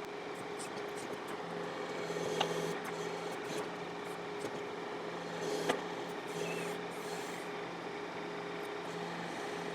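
John Deere 4052R compact tractor's diesel engine running steadily while its 485A backhoe digs, with a lower hum that comes and goes as the hydraulics are worked. Two sharp clicks, about two and a half and nearly six seconds in.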